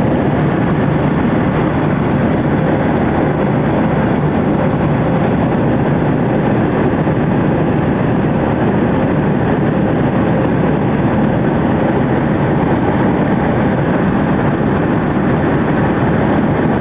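Steady cabin noise of a Boeing 737-500, its CFM56 jet engines and rushing air, with a faint steady hum.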